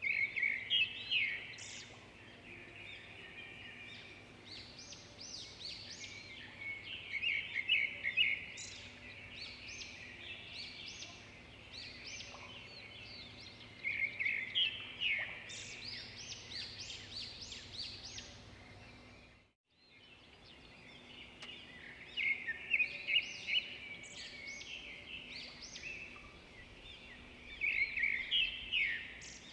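Edible-nest swiftlets chirping and twittering in quick bursts of a second or two that come back every several seconds, over a faint steady hum.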